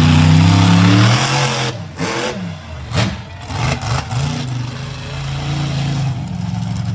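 Monster truck engine revving hard at high throttle, then the throttle drops off about a second in. A sharp bang comes about three seconds in, and the engine then runs lower and steadier.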